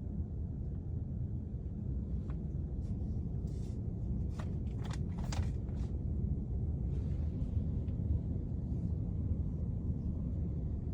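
A low steady rumble, with a handful of short scrapes and rustles mostly about halfway through: handling and movement noise from someone shifting about in a crawl space.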